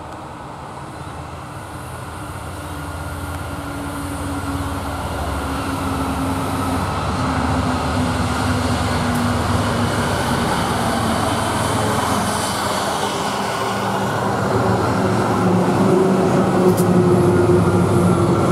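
Diesel locomotives hauling a heavily loaded freight train approach and pass close by, their engine drone and rail noise growing steadily louder and peaking as the lead locomotives go past near the end.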